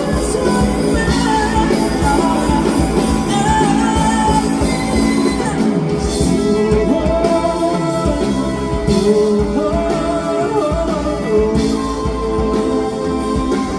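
Rock band playing, with a wavering lead guitar melody over the band.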